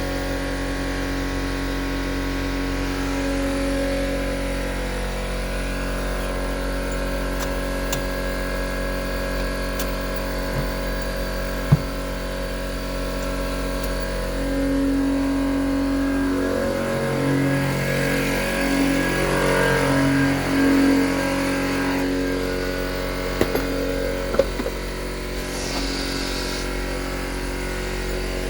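Ford B-MAX engine running steadily, with several short changes in pitch about two-thirds of the way through.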